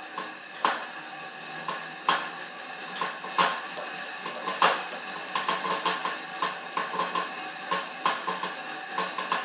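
Horizon M4 exercise bike in use, making repeated metallic clicking and clanking noises. The knocks come about once a second at first, then in quicker clusters of taps from about halfway through. The owner finds the noise excessive.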